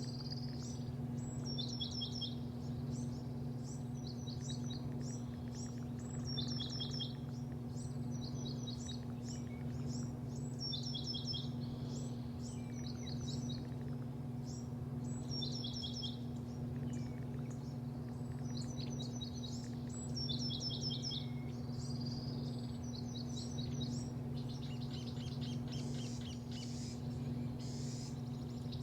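Small birds chirping in short quick series every second or two, over a steady low mechanical hum that is the loudest sound.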